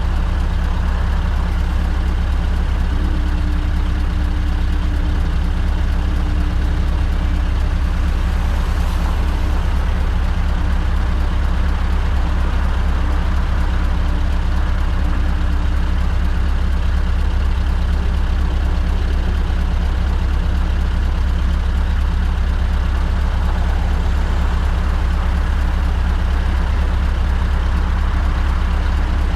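Scania R580 V8 diesel engine with an 8-inch straight-pipe exhaust, running at a steady, even pitch with a low, strong rumble and no revving.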